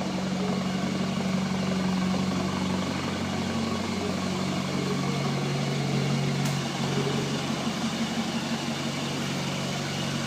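Mitsubishi L200 pickup engine idling steadily through a stainless steel custom exhaust, a low, even drone.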